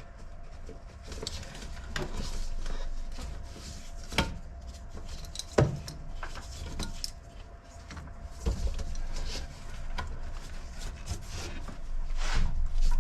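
Scattered clicks, clinks and knocks of hand tools and engine parts being handled while the intake manifold's connections are undone, with two sharper knocks about four and five and a half seconds in, over a steady low hum.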